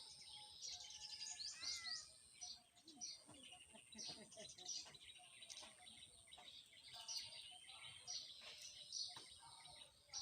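Faint chorus of small birds chirping and twittering, many short quick calls overlapping, with a thin steady high-pitched tone behind them.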